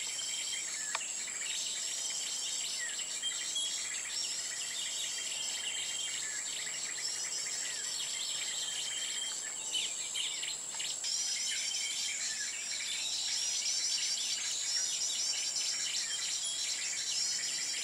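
Small songbirds chirping and calling over and over, short curling notes in quick series, over a steady high-pitched insect drone.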